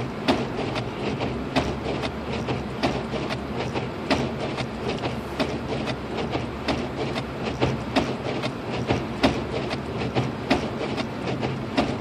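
Inside a car's cabin driving on a snow-covered road: a steady low rumble from the road and engine, with frequent sharp, irregular clicks and ticks, about two to three a second.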